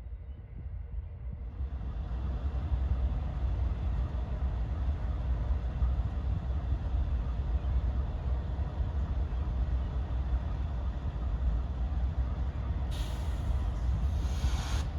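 Outbound commuter train approaching and slowing to stop: a low, steady rumble that grows louder over the first couple of seconds, with a burst of air hissing near the end.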